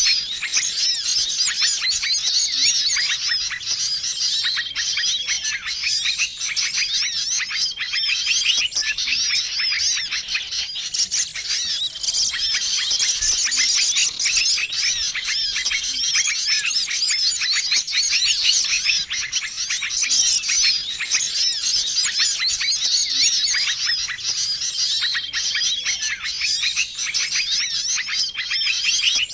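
Busy chorus of many small songbirds chirping and twittering without a break, the kind of noisy mixed bird-lure recording used to call in small wild birds. A short level whistle recurs every few seconds.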